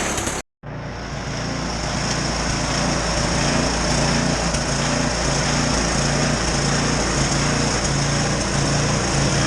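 Snowblower engine running steadily, with a brief break about half a second in.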